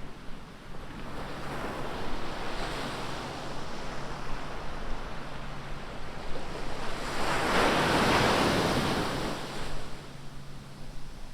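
Ocean surf on a beach: a continuous wash of waves, with one larger wave breaking and rushing in from about seven to nine and a half seconds in, the loudest part.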